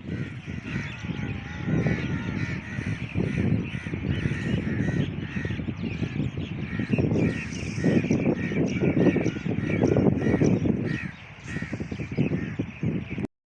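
Many crows cawing at once, short harsh calls overlapping in quick succession over a loud low rumbling noise. The sound cuts off abruptly near the end.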